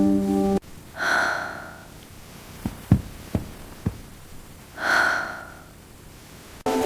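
Music cuts off, then two long breathy sighs about four seconds apart, with a few short soft clicks between them; music comes back in near the end.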